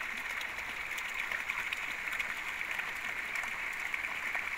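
Steady heavy rain falling, a dense even hiss dotted with many small drop ticks.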